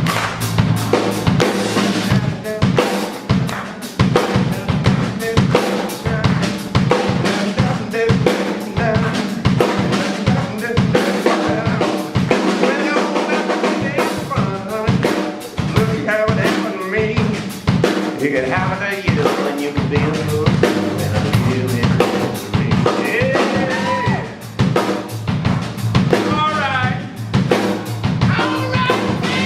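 Live rock band playing a heavy riff-rock tune, with the drum kit hitting hard throughout under a bass line and wavering lead lines. The bass drops out briefly about halfway through.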